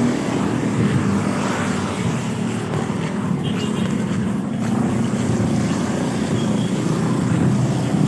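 Steady running noise of a moving vehicle, a low rumble that holds even throughout.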